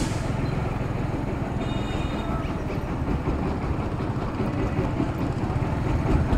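Motorcycle running steadily on the road while riding, with a low engine rumble under even road and wind noise.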